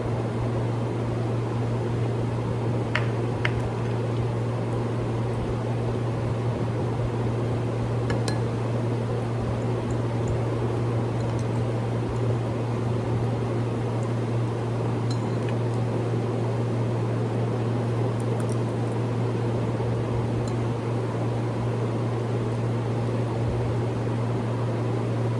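Steady hum of an electric fan running, with a few faint clicks of eating utensils against dishes.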